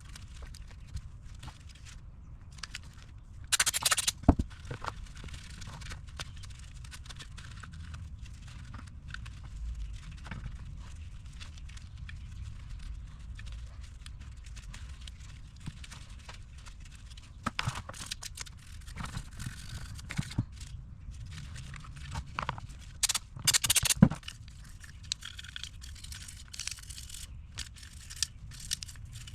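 Motorcycle throttle bodies being cleaned with solvent: intermittent rubbing and scrubbing with a few short hissy bursts, loudest about four seconds in and around eighteen and twenty-four seconds, over a steady low hum.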